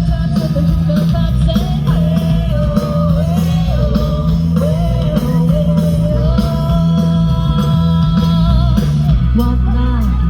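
Live rock band playing loudly, with a lead singer's voice over the band.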